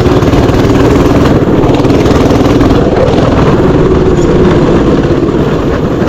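Mini bike engine running steadily at a fairly constant speed, loud and close, with its rapid firing pulse and a slight rise and fall in pitch.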